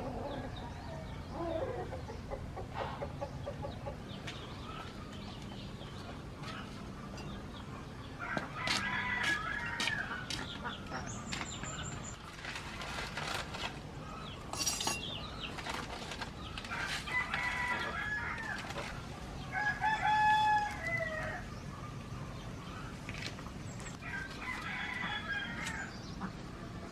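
Chickens clucking, with a rooster crowing several times; the loudest crow, about two-thirds of the way in, falls in pitch at its end.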